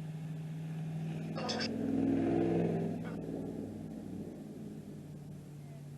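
A truck passing by on a nearby road, swelling to its loudest about two seconds in and then fading away.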